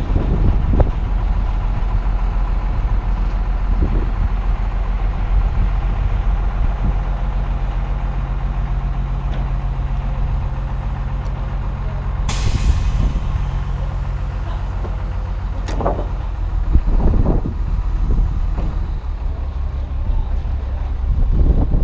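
Heavy truck engine running steadily, with a short sharp hiss of air, like an air brake, about twelve seconds in. Wind rumbles on the microphone underneath.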